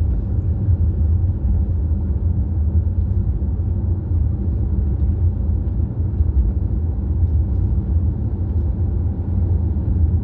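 Steady low rumble of a road vehicle's engine and tyre noise while cruising.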